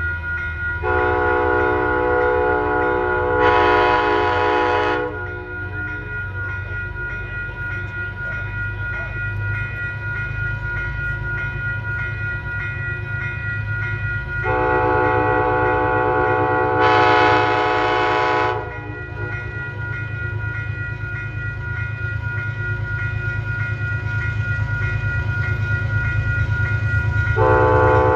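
Locomotive air horn sounding long chord blasts: one about a second in, another about fourteen seconds in, and a third starting near the end, each growing louder and brighter partway through. A steady low diesel locomotive rumble runs beneath.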